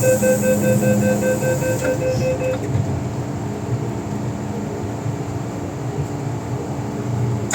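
MTR M-train door-closing warning: rapid repeated beeps, with a hiss from the doors, that stop about two and a half seconds in. The train's steady rumble runs underneath and carries on after the beeps stop.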